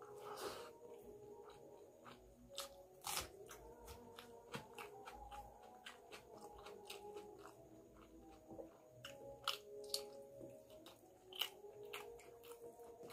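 Close-up eating sounds of rice and curry taken by hand: wet chewing with many quick lip smacks and mouth clicks, a few of them louder.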